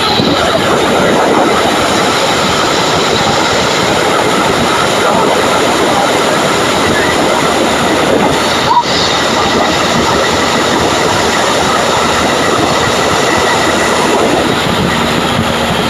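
Light airplane's piston engine and propeller running steadily, heard from inside the cabin as a loud, even drone, with a brief break in the sound about nine seconds in.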